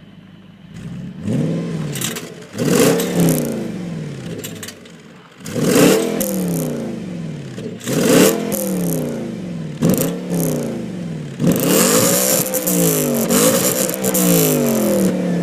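Audi RS4's 4.2-litre V8 revved repeatedly, about seven or eight times. Each rev rises quickly and falls back toward idle, and the last few come in quick succession near the end.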